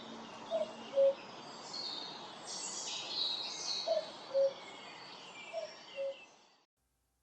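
Birdsong: a chorus of high chirps and warbles, with a lower two-note call, the first note higher than the second, heard three times. It all fades out near the end.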